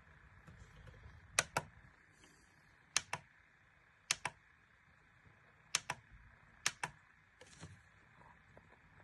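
Five sharp double clicks, each a quick pair, at irregular intervals of a second or so, then a softer pair near the end, over a faint low hum.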